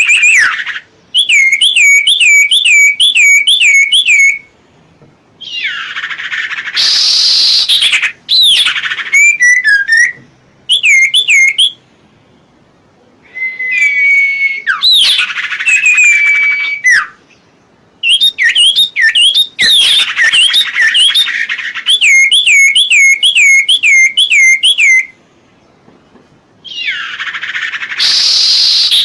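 A songbird, named in the title as serpu or cipoh, singing loudly in bursts of rapid rolling trills of repeated up-and-down whistled notes. The trills alternate with harsher, raspier calls, including one about six seconds in, another about fourteen seconds in and a third near the end.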